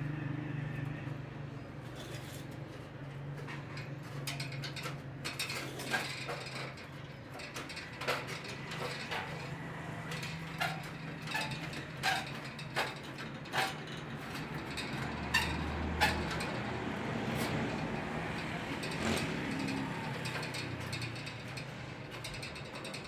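Scattered sharp clicks and knocks of hand work, irregularly spaced, over a steady low hum.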